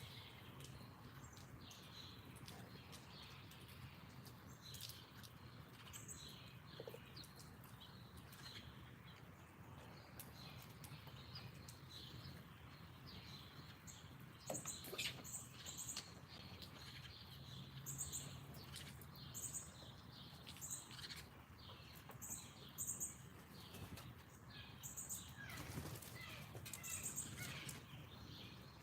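Small wild birds chirping and calling faintly at a backyard feeder, with a short, very high note repeated every second or so through the second half.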